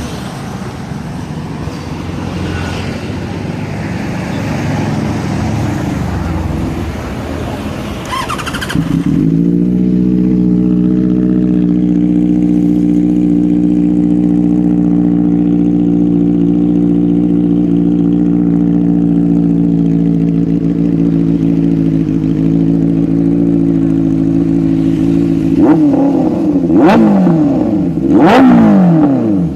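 Benelli 600 inline-four motorcycle engine running through its exhaust: after a noisier first stretch it settles about nine seconds in to a steady idle, then is revved in a few quick blips near the end.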